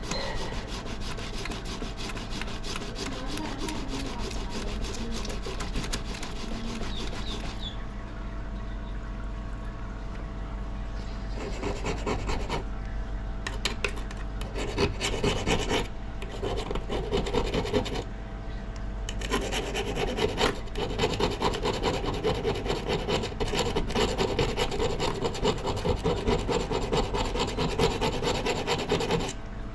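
Rapid back-and-forth scraping strokes on a rusted steel axe head, grinding off rust, going on continuously with a heavier, busier stretch in the second half.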